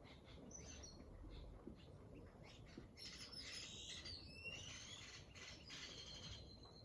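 Several small birds chirping and calling, with a busier stretch of quick whistles and chatter from about three seconds in.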